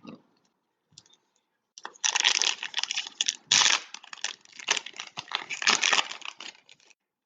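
Foil trading-card pack wrapper being torn open and crinkled, a dense crackle that starts about two seconds in and stops abruptly near the end.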